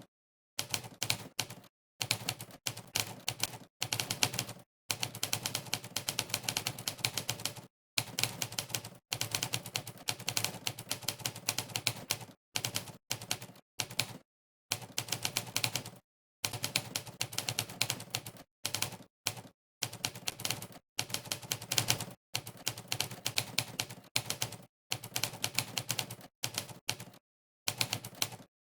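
Monkeytype's typewriter keypress sound effect: rapid runs of typewriter key clacks, one per keystroke, broken every second or two by short gaps of dead silence.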